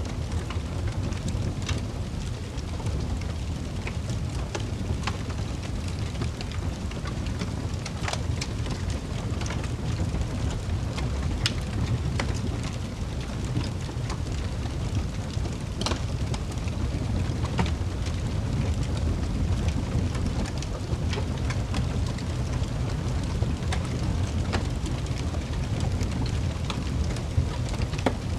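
Fireplace fire burning: a steady low rumble of flames with irregular sharp crackles and pops of burning wood.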